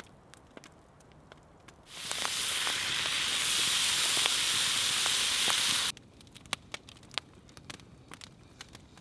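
Campfire crackling with scattered pops, and a loud steady hiss about two seconds in that swells up, holds for some four seconds and cuts off abruptly.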